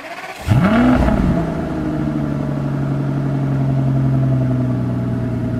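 2005 Aston Martin DB9's V12 engine started by push button. After a brief crank it catches about half a second in and flares up in revs, then settles into a steady idle.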